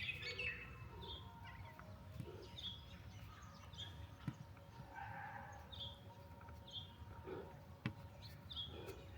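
Wild birds chirping: short, high chirps repeating about once a second, faint, with a couple of brief soft taps in between.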